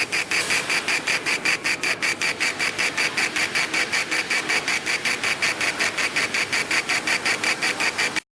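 60 W CO2 laser engraver raster-engraving glass: the laser head sweeping back and forth at about six passes a second, each pass a high buzz from the axis motors. It stops abruptly near the end.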